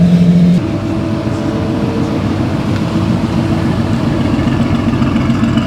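Car engine running as it drives off, its note shifting to a different pitch about half a second in and then holding steady.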